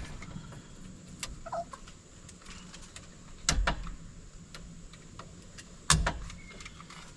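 Clicks and knocks from tools and wires being handled in an electrical subpanel, with two louder knocks about three and a half and six seconds in.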